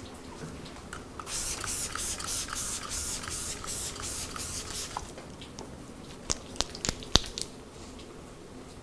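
Spray bottle misting in quick repeated pulses of hiss for about four seconds, followed by a few sharp clicks.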